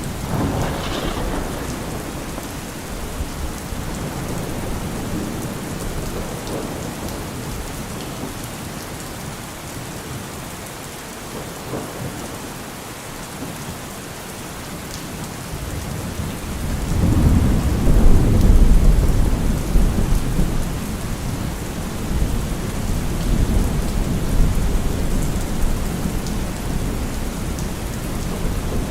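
Steady rain falling, with a long low roll of thunder that swells just past halfway and rumbles on for several seconds.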